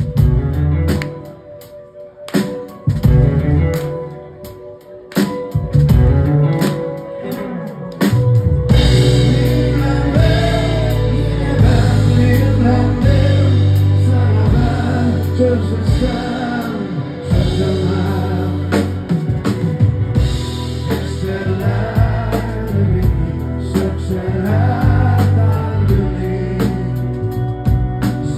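Live rock band performing a song. The first eight seconds or so are sparse, with separate drum hits and low bass notes; then the full band comes in with singing over drums and bass.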